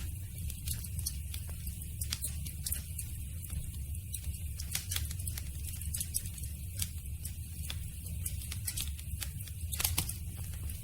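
Wood campfire crackling: irregular snaps and pops, one sharper pop near the end, over a steady low rumble.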